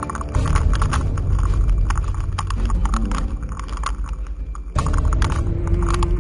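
Bike rattling and clattering over a rough rocky trail, a fast irregular run of knocks over a steady low rumble, with a brief sudden dip about three-quarters of the way through.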